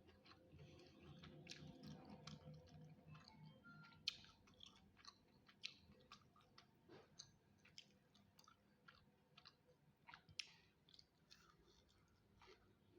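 Faint, close-up chewing of food, with many short irregular mouth clicks.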